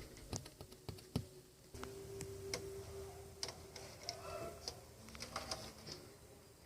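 Scattered light clicks and taps at irregular intervals, with a faint steady hum for a couple of seconds in the middle.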